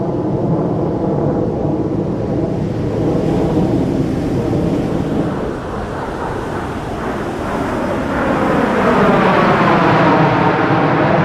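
Jet engine noise from a fighter jet flying past, a continuous loud rush that dips briefly and then swells louder about eight seconds in as the jet comes closer.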